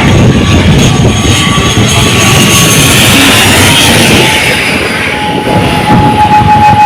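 Airplane passing low overhead, a loud engine noise with a high whine that drops in pitch about four to five seconds in as it goes by.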